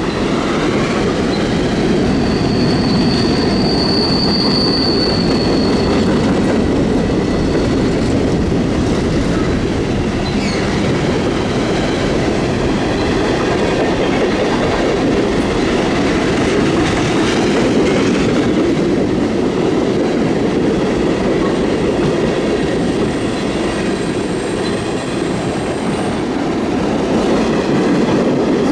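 Cars of a mixed freight train rolling past at steady speed: a continuous rumble and rattle of wheels on rail. High wheel squeals ring out briefly about three seconds in, and again as a thin, very high squeal from about two-thirds of the way through until shortly before the end.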